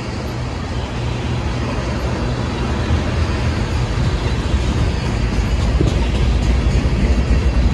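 Freight cars rolling past close by, tank cars and then boxcars: a steady deep rumble of steel wheels on the rails, growing a little louder.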